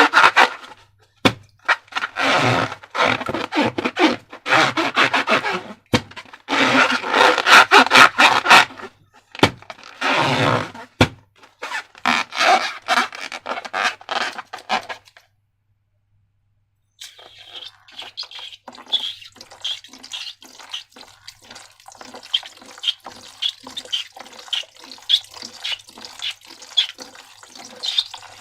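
Wet slime squelching and gushing in loud bursts of a second or two as it is squeezed and poured. After a short silent gap partway through, rapid sticky crackling and clicking as the slime is worked.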